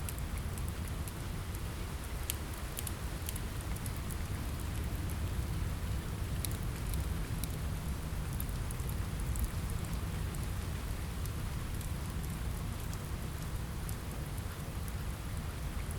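Steady rain falling with a low, even rumble, and many small sharp crackles and ticks scattered through it.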